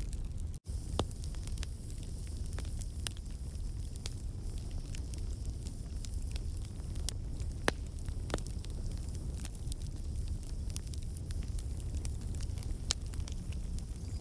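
Wood campfire crackling: frequent sharp pops and snaps from the burning logs over a steady low rumble of flame. The sound drops out for an instant about half a second in.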